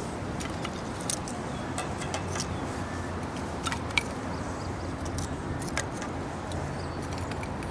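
Wood campfire crackling, with scattered sharp pops and ticks over a steady rushing background.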